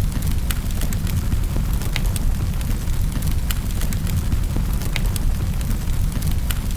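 Wood fire burning in a fireplace: a steady low roar of the flames with sharp, irregular crackles and pops of the burning logs, several a second.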